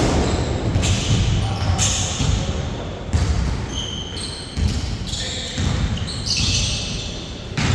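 Basketball bouncing on a hardwood indoor court during a game, thudding at uneven intervals, with short high squeaks in between and the whole echoing in a large hall.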